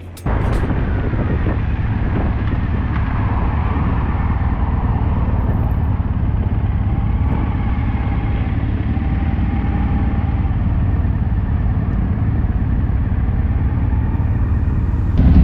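Motorcycle running at a steady road speed, heard with wind rush over the camera microphone. The engine is low and even throughout, and it gets louder right at the end.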